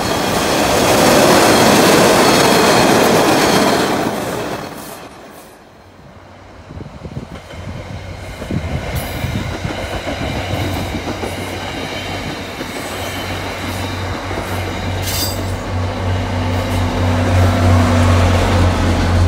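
An MBTA Orange Line subway train passes close by with a loud rush of wheel and rail noise that fades out about five seconds in. An MBTA commuter rail train then rolls past with repeated clicks of its wheels over the rails, and the deep steady drone of its diesel locomotive grows louder near the end.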